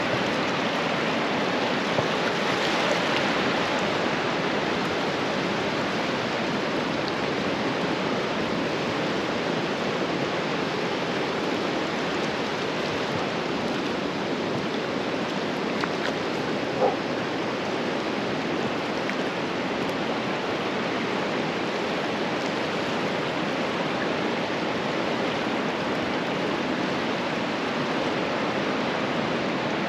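Ocean surf washing on a beach: a steady, even rushing hiss. A brief small tone sounds once about 17 seconds in.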